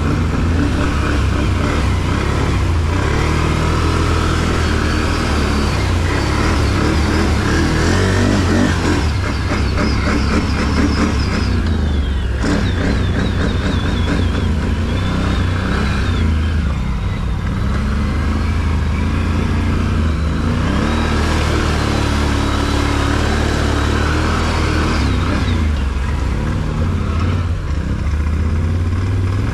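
Off-road vehicle engine running under way, its pitch rising and falling with the throttle.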